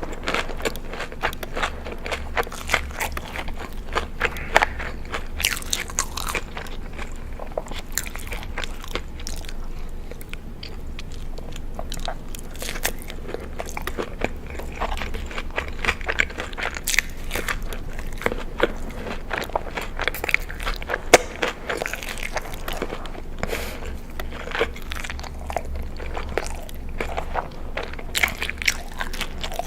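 Eating sounds: crunchy bites and chewing, a dense run of sharp crackling clicks with a few louder crunches.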